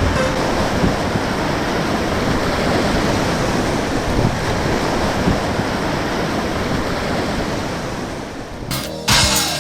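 Steady rushing of a whitewater river over rapids. Music cuts in near the end.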